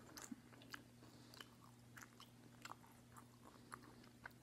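Faint, close-miked chewing of macaroni and cheese with the mouth closed: soft, irregular wet mouth clicks, over a low steady hum.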